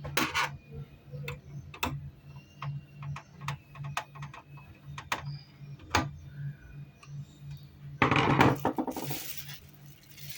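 Scattered light clicks and taps of small hard objects being handled, with a louder rough scraping rustle about eight seconds in, over a steady low hum.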